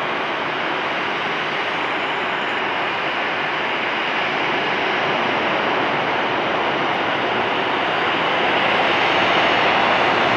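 Airbus A320-214 jet landing, the steady noise of its CFM56 turbofan engines growing louder over the last few seconds.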